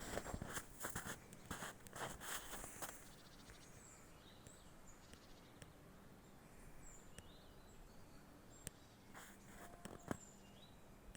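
Footsteps on the forest path for about the first three seconds, then they stop. After that only short, faint bird chirps are heard now and then, with a couple of single clicks near the end.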